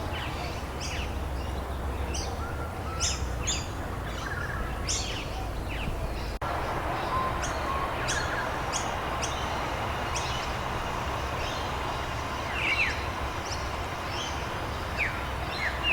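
Small birds chirping in many short calls over a steady hiss of rain, with a momentary dropout about six seconds in.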